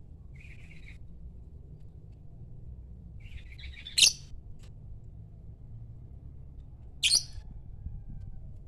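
Lovebird calling: a soft short chirp, then a chattering call that ends in a loud, sharp high-pitched call about four seconds in, and a second loud sharp call near the end, over a low steady hum.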